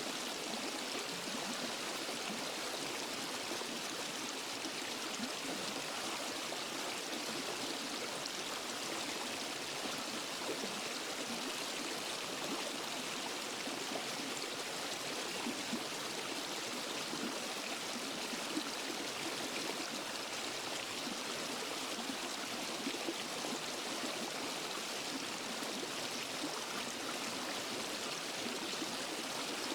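Waterfall and forest stream flowing: a steady, even rush of water with no breaks.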